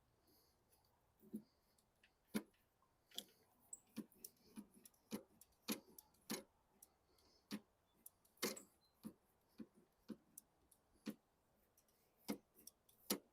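Irregular small clicks and taps of metal parts being handled as the drive cable's Z-bend end is worked into the mower's linkage.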